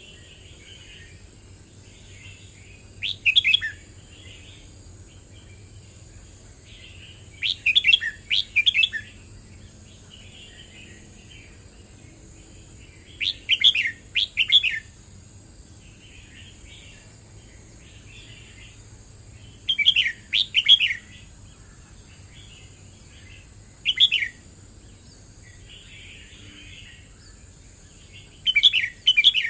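Red-whiskered bulbul singing: short, bright warbled phrases about every five seconds, with softer chattering notes between them.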